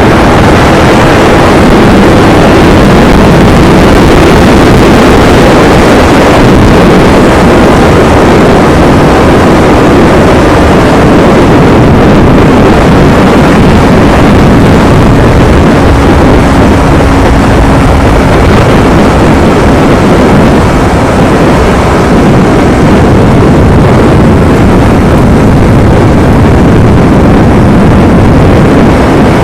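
Yamaha R25's parallel-twin engine running through its stock exhaust while the bike is ridden, loud and continuous, heavily mixed with wind rush.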